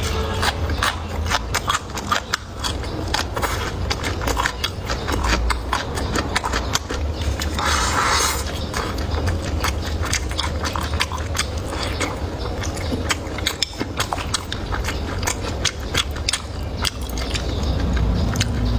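Close-miked chewing and biting of food, a run of wet clicks and crackles, with a short hissing burst about eight seconds in.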